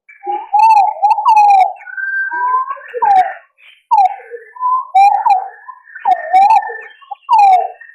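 Green pigeons (punai) calling, as on a hunting lure recording: a run of wavering, whistled notes that bend up and down and overlap, with a higher held whistle through the middle. The calls start abruptly and cut off at the end.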